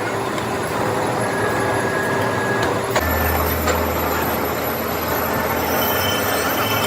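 Machine-shop machinery running steadily, with a few faint clicks. A low hum comes in suddenly about three seconds in.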